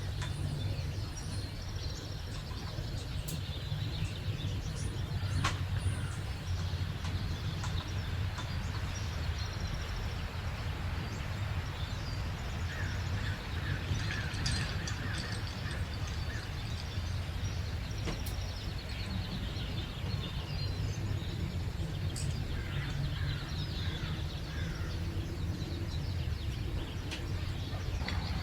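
Songbirds chirping and trilling in scattered calls over a steady low background rumble.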